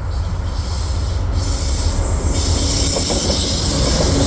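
Via Rail passenger train, led by a GE P42DC diesel locomotive, approaching with a heavy low rumble that grows louder. A high hiss of wheels on rail joins about two seconds in.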